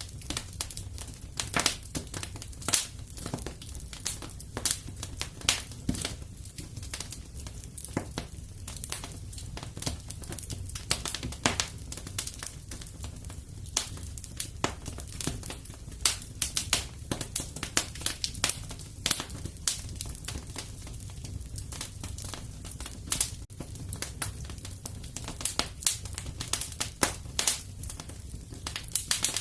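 Wood fire crackling in a fireplace: a dense, irregular run of sharp snaps and pops over a steady low rumble.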